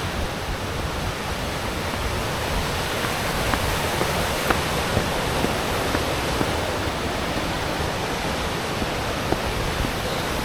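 Fast-flowing stream rushing steadily, with a few faint ticks over it.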